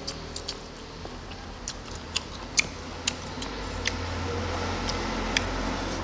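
Close-miked eating: wet mouth clicks and lip smacks, irregular and about a dozen in all, as a man chews a mouthful of rice and vegetable stew. A steady low hum runs underneath and grows louder about halfway through.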